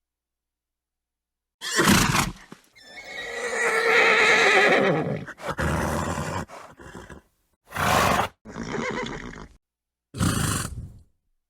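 A horse snorts, then neighs in a long wavering call of about two and a half seconds. Several short, noisy snorts and blows through the nostrils follow, with short pauses between them.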